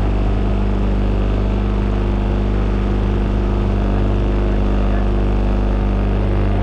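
Motorboat engine running steadily at an even pitch, heard from on board.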